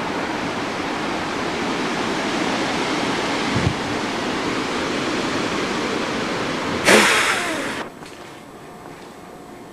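Steady rushing background noise, with a loud, short burst of rushing noise about seven seconds in. The sound then drops suddenly to a much quieter background, as at a cut in the recording.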